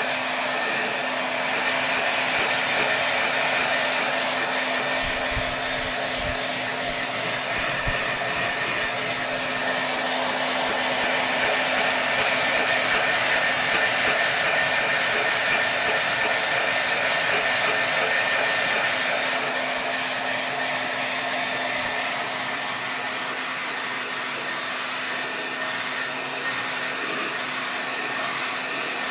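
Hair dryer blowing steadily at full power, an even rush of air with a steady motor hum beneath it. The loudness swells slowly and eases off a little near the end.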